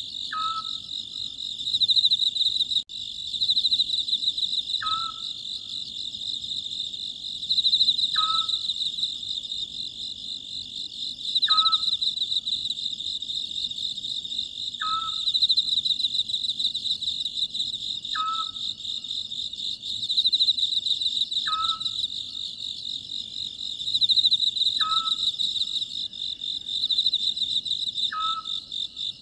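A steady, loud chorus of crickets chirping, with an Oriental scops owl calling over it about every three seconds, each call a short note that drops quickly in pitch.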